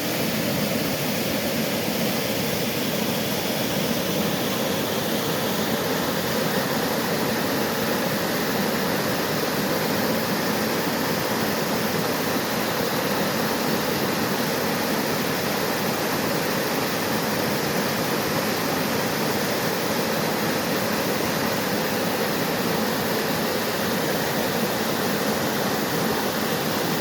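Waterfall on a mountain creek, water falling and splashing in a steady, even rush.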